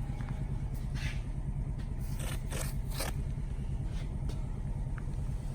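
Plastic bumper cover being handled and turned over, with a few short scrapes and rustles about a second in and again between two and three seconds in, over a steady low hum.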